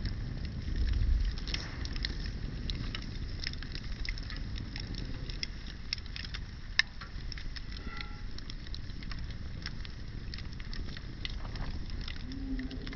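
Wood fire crackling with frequent sharp pops and snaps, one louder pop about seven seconds in. A low wind rumble on the microphone in the first second or so.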